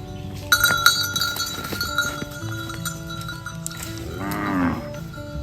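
A cowbell clanks about half a second in and rings on. Near the end a cow lets out one moo that rises and then falls in pitch.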